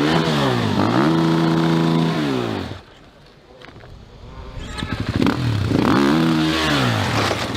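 Dirt bike engine revving hard, its pitch climbing and falling as it shifts and passes. The sound drops away for about a second and a half mid-way, then another bike comes in, revving up again.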